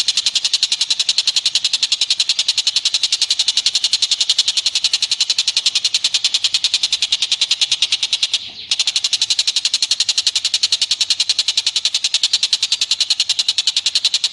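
Rapid, very even high-pitched chattering call, about ten notes a second, with a brief break about eight and a half seconds in, from one of the animals on a bird-song training (masteran) track.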